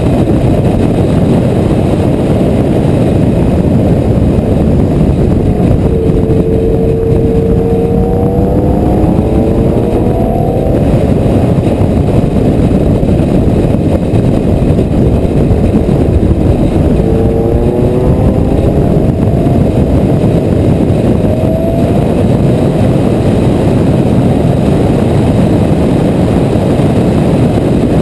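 Onboard sound of a sports car at speed on a race track: a loud, steady rumble of wind and road noise under the engine. Twice, about six seconds in and again near seventeen seconds, the engine note climbs in pitch for about four seconds as the car accelerates.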